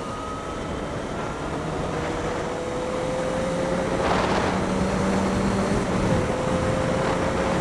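Yamaha XJ6 Diversion's 600 cc inline-four pulling in a low gear out of a corner, its note rising slowly and getting gradually louder. A heavy rush of wind noise on the unshielded microphone runs under it.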